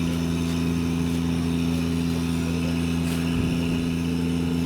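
An engine running steadily, a constant low hum that does not change in pitch or loudness.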